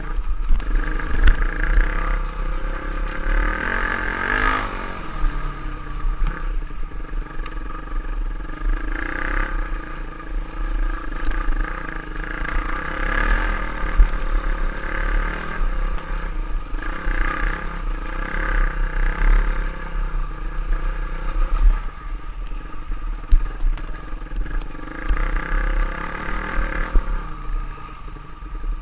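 Trail/enduro dirt bike engine running under changing throttle while being ridden, its note rising and falling, with occasional short clicks and clatter.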